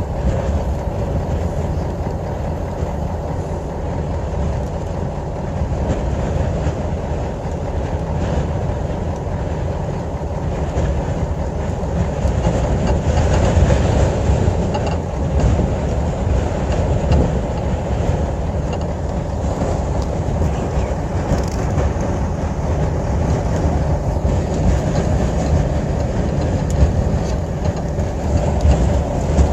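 Steady low rumble of a moving vehicle heard from inside, with rushing wind over it.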